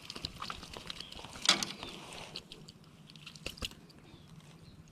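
Close handling noises: scattered small clicks and crackles, with one short, louder rustle about a second and a half in and two sharp clicks a little past the middle.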